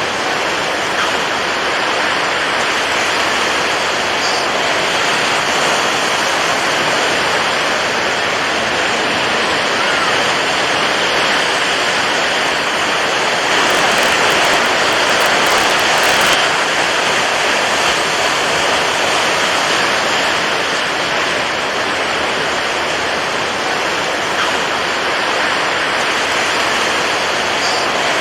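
Steady rushing water noise, as of water waves, swelling a little louder for a few seconds around the middle.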